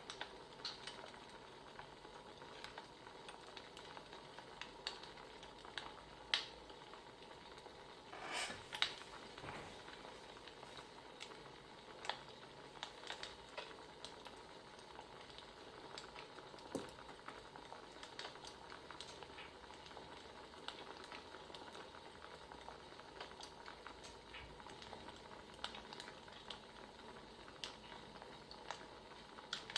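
Wood fire crackling: irregular small pops and snaps over a steady soft hiss, with a slightly bigger crackle about eight seconds in.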